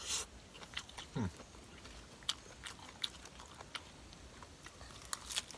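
Close-up eating sounds: a person chewing and biting into spicy mixed-seafood papaya salad, with scattered wet smacks and crisp clicks, and a short falling sound about a second in.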